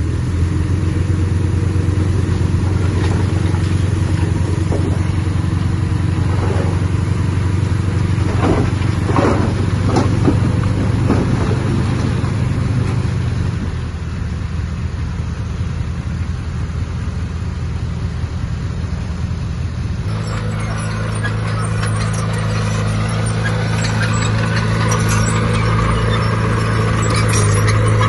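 Heavy diesel earthmoving machinery running steadily under load. About two-thirds of the way through the sound changes abruptly to another diesel engine, with dense metallic clanking and squeaking over it.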